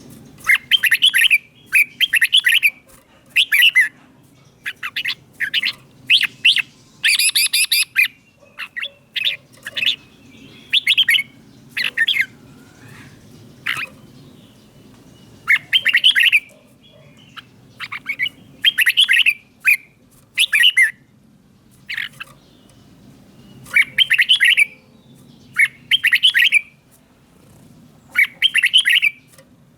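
Red-whiskered bulbul singing: short, bright whistled phrases repeated every second or two, with brief gaps between them.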